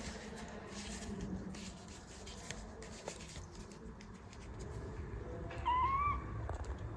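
A kitten gives one short, high mew near the end, over faint rustling and small clicks.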